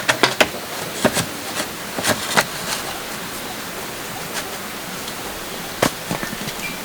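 Steady hiss with a scattering of sharp, irregular knocks and clicks: a cluster in the first two and a half seconds, then one more about six seconds in.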